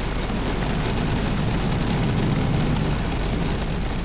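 Heavy rain falling hard, a steady dense rush with a low rumble underneath.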